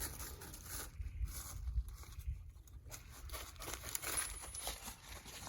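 Irregular rustling and crinkling over a low rumble of wind on the microphone.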